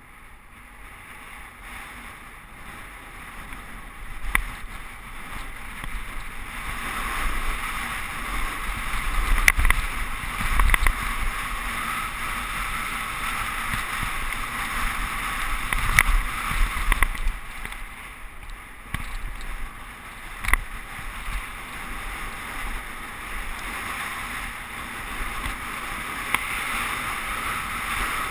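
Mountain bike riding down a dirt downhill trail: a steady rush of wind and tyres on dirt that builds over the first few seconds, broken by sharp knocks and clatters as the bike hits bumps.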